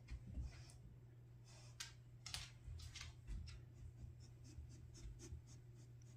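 Faint, scattered scratching and clicking over a low steady hum.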